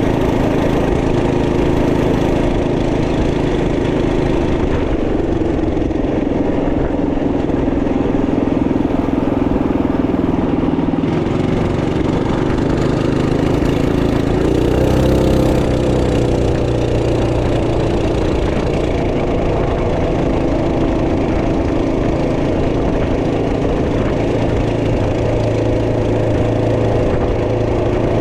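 Trailmaster MB200 minibike's 212cc single-cylinder four-stroke engine running under way. Its pitch dips, then climbs again about halfway through as the throttle changes.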